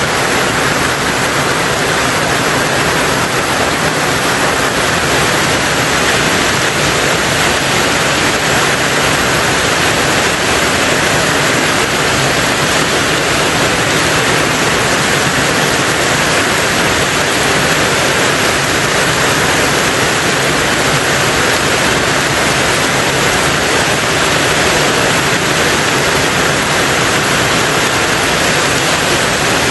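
Heavy rain on a tin roof, a dense, steady hiss of drops with no single strikes standing out.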